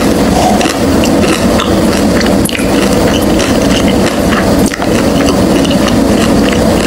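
Close-miked chewing of a crispy birria taco: wet crunching and smacking with many small crackles and a few sharper crunches, over a steady low rumble.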